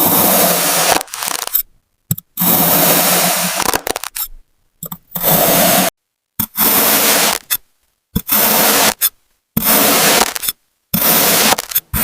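A blade slicing through kinetic sand: a series of gritty scraping crunches, each about a second long, with dead silence between cuts.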